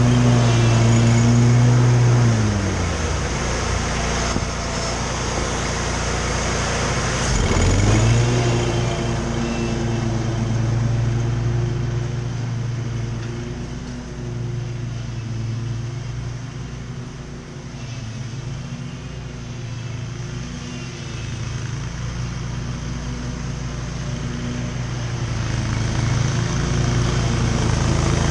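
Riding lawn mower engine running under load. It drops in pitch about two seconds in, comes back up to speed around eight seconds, then runs steadily, fading somewhat in the middle and growing louder again near the end.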